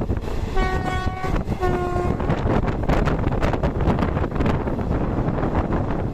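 Train horn sounding two short blasts over the steady rumble and wind of a moving train, followed by a run of sharp clacks from the wheels on the rails.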